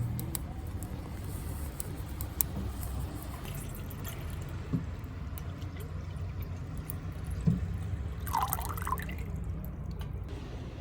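Wood fire crackling and popping in a Solo Stove, with a few louder pops, over a steady low rumble. A brief wavering squeak comes about eight seconds in.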